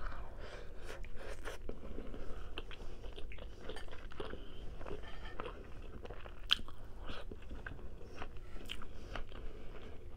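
A person chewing food, with many small, irregular mouth clicks and crunches.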